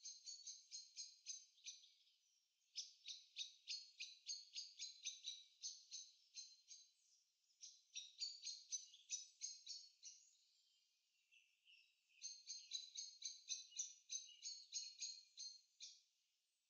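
Faint bird chirping in quick repeated high notes, about four a second, in bouts of a few seconds separated by short pauses.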